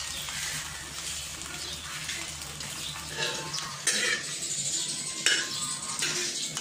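A small lump of meatball mixture sizzling in hot oil in a non-stick frying pan, with a metal spatula scraping and knocking against the pan a couple of times from about four seconds in.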